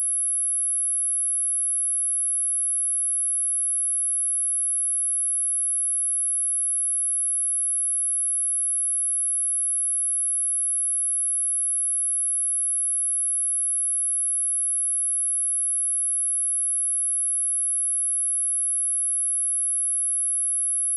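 Pure sine-wave test tone at 10914 Hz, one steady high-pitched whine held at constant pitch and level.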